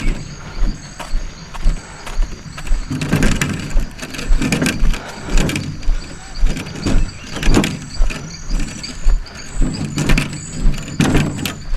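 Footsteps walking at a steady pace, about two steps a second, with rustling between the steps.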